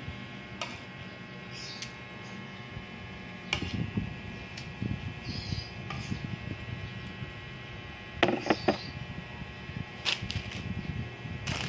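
A spoon clicking and knocking against a bowl of champorado now and then, with soft eating sounds, over a steady hum. The loudest knocks come together about eight seconds in.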